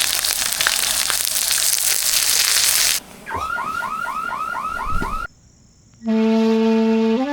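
Edited intro sounds: about three seconds of loud hiss, then a quickly repeating alarm-like warbling tone, about four to five warbles a second. After a brief near-silent gap, a held woodwind-like music note begins near the end.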